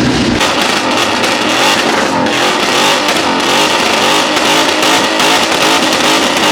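A car's exhaust running very loud and harsh, loud enough to hurt the ears.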